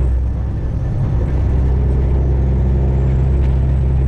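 Freightliner Classic XL semi truck's diesel engine droning steadily while driving, heard from inside the cab. The drone dips and wavers briefly around half a second in, then settles back to an even pitch.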